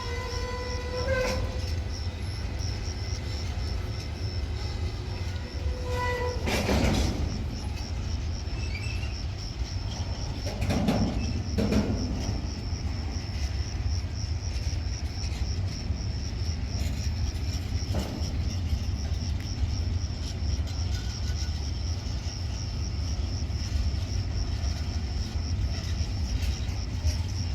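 A train running through a railway station with a steady low rumble, its horn sounding briefly about a second in and again about six seconds in, with a few knocks from the wheels and track.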